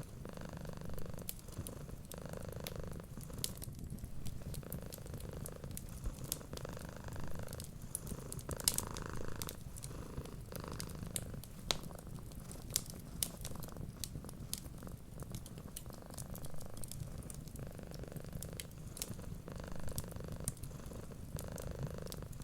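A domestic cat purring steadily, the purr swelling and easing every second or two with its breaths, over the scattered sharp pops and crackles of a wood fire.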